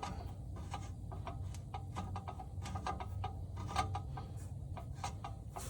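Scattered, irregular light clicks and ticks from handling the truck's under-bed spare-tire hoist and its cable, over a low steady hum.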